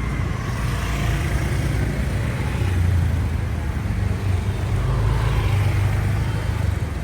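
Motorcycle engine running with road and traffic noise while riding, a steady low rumble that swells a little about three seconds in and again later.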